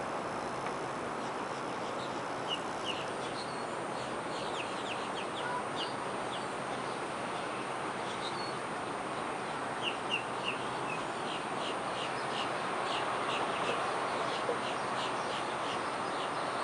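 Birds chirping in several runs of short, high calls over a steady outdoor background hiss.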